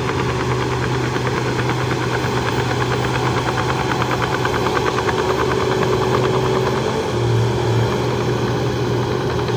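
Heavy diesel engine of a Shantui DH17C2 bulldozer running steadily, with a fast even clatter through the middle and a brief swell about seven seconds in.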